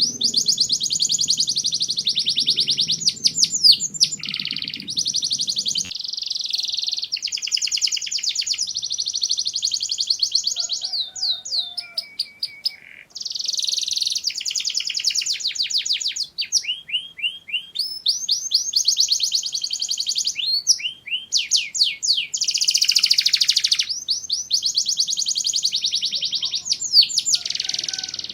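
Domestic canary singing: long phrases of fast, high-pitched trills and rolling repeated notes, with a short break near the middle.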